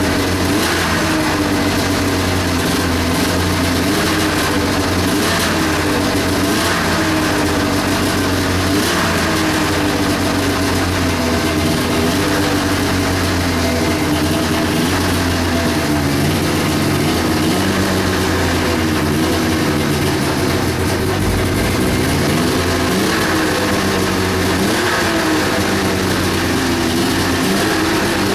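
1997 Ski-Doo Formula 500 snowmobile's two-stroke engine running just after a cold start. It idles with its speed wandering up and down. The sled's jetting and timing are still being sorted out.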